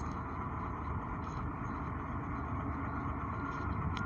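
Heavy diesel engine of the loading equipment running steadily, a constant mechanical hum.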